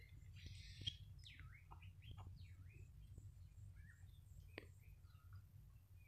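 Faint birds chirping: scattered short calls, several sweeping downward, over a low steady hum, with a few faint clicks.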